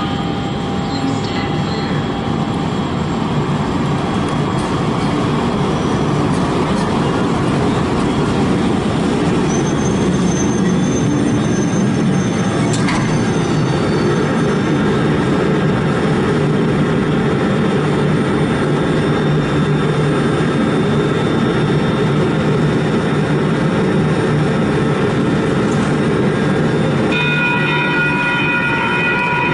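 Sacramento Regional Transit light rail train running on the tracks: a loud, steady rumble of wheels and motors, with a thin high wheel squeal from about ten seconds in. Near the end a steady chord of several tones starts up.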